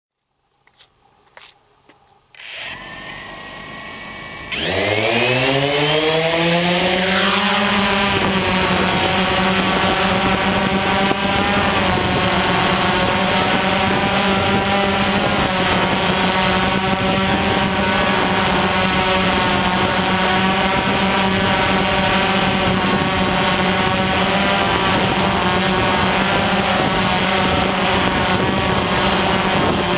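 DJI Phantom quadcopter's electric motors and propellers spinning up, their pitch rising for about three seconds, then running steadily. A few small clicks come before the spin-up.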